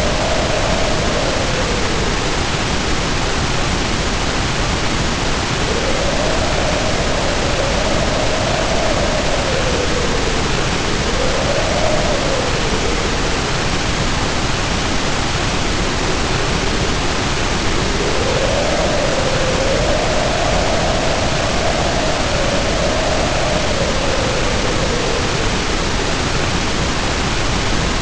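Storm sounds: heavy rain pouring in a steady, dense hiss, with the wind howling over it in slow swells that rise and fall in pitch several times.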